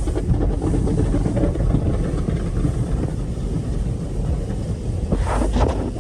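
Automatic car wash machinery running with a steady low rumble, and a brief, brighter rushing burst about five seconds in.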